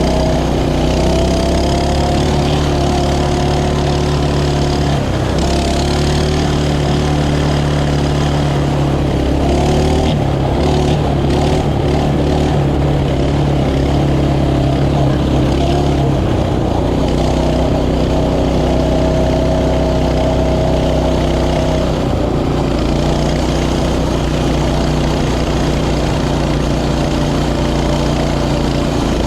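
Mini bike's small engine running under way, its pitch shifting up and down several times as the throttle changes.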